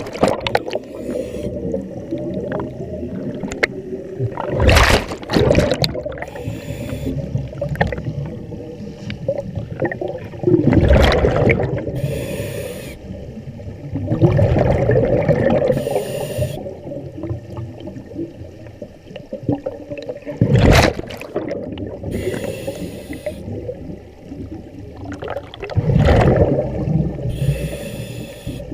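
Scuba diver breathing through a regulator underwater: a loud rush of exhaled bubbles about every five or six seconds, with a short hiss from the regulator on each inhale in between.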